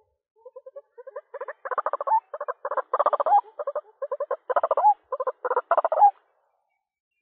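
White-breasted waterhen's call, calling for a mate: a fast run of harsh pulsed notes in bursts. It starts faintly about half a second in, grows louder, and stops about six seconds in.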